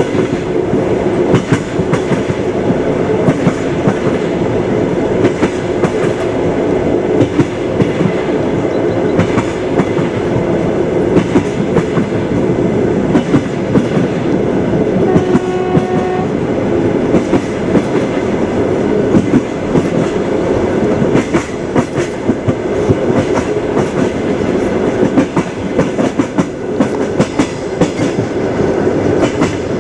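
Train wheels clattering over rail joints, a steady rumble with rapid clicks and knocks throughout. About halfway through comes a brief pitched tone lasting about a second, like a distant horn.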